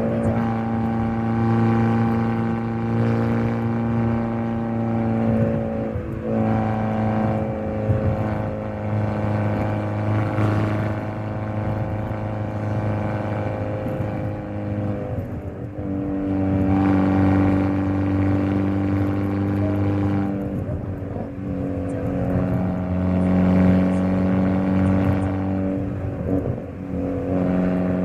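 Hyundai Elantra N's 2.0-litre turbocharged four-cylinder engine and exhaust under way, holding a steady note that steps to a new pitch several times, about 6, 16 and 21 seconds in, as the revs change.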